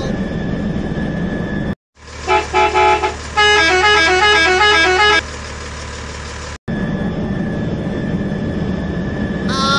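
Electronic toy sounds: a steady buzzing hiss breaks off abruptly about two seconds in, giving way to a short beeping tune of three quick chord beeps and then a stepping run of notes. A low hum follows, then another sudden cut, and the steady hiss returns for the rest.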